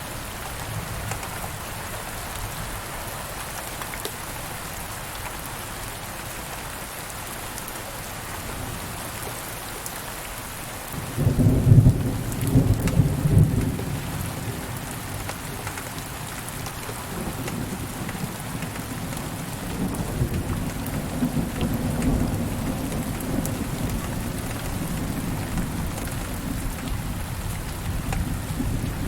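Steady rain falling, with a clap of thunder breaking in about eleven seconds in, loudest for a few seconds, then rolling on as a lower rumble under the rain.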